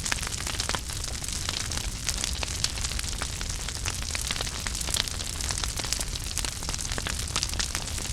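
Fireplace fire burning with a steady hiss and many irregular small crackles and pops, over a low rumble.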